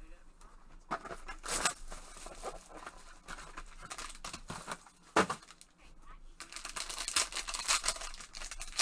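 Trading-card packaging being torn and opened by hand: crinkling, rustling and ripping of the wrapper, with a short sharp knock about five seconds in.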